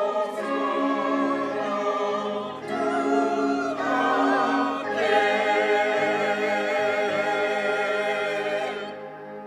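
Church choir and congregation singing the final drawn-out 'Hosanna' of a hymn in long held chords, the chord changing twice before the singing stops near the end.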